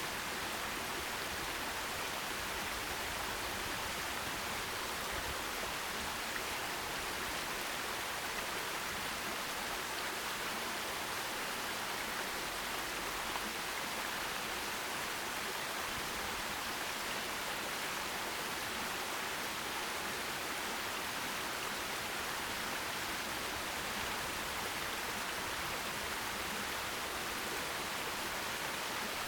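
Forest stream flowing over rocks: a steady, even rush of water with no distinct splashes.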